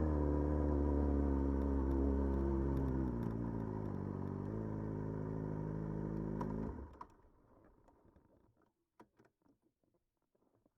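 Motorcycle engine idling steadily, then switched off about seven seconds in, the sound cutting off suddenly; a few faint clicks follow.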